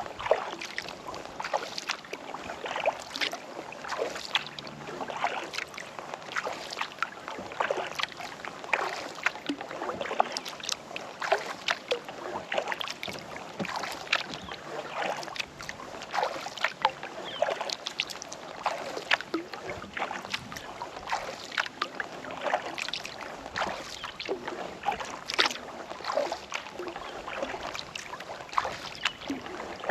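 Kayak paddle dipping into lake water in a steady run of small splashes and drips as the paddler strokes along.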